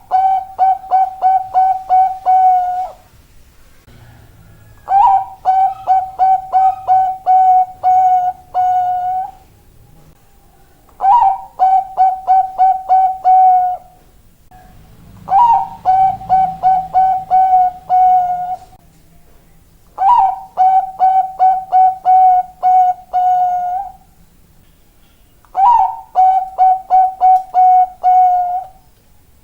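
Bangkok-type zebra dove (perkutut) singing its staccato cooing song. Six bouts, each opening on a slightly higher note followed by a quick run of about ten clipped coos, with a short pause between bouts.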